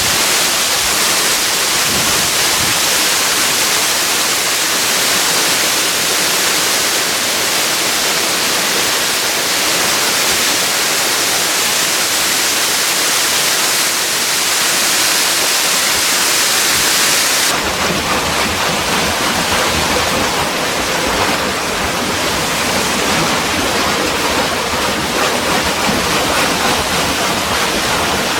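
Rushing, splashing water, a loud steady hiss like a small waterfall or a fast stream. About two-thirds of the way through it changes suddenly to a duller rush with more low rumble.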